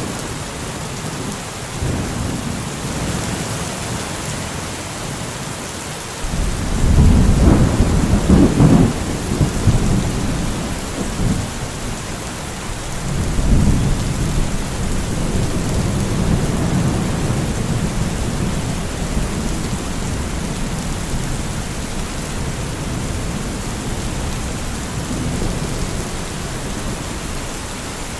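Steady heavy rain with rolling thunder: a loud low rumble of thunder about six seconds in that lasts several seconds, and a second, weaker roll a few seconds later.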